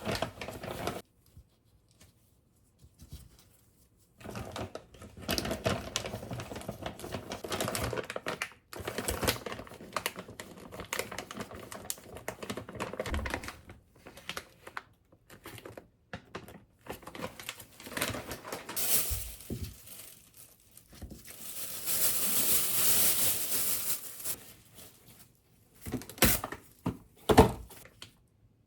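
Food-preparation handling sounds: bouts of rapid tapping and crinkling rustles with short pauses between them, and a few seconds of steady hiss about two-thirds of the way through.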